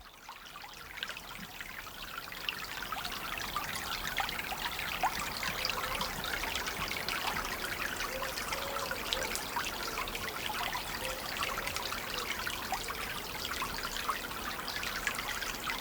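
Chalk stream water trickling and babbling over its shallow bed, a steady stream of small splashes that grows louder over the first few seconds.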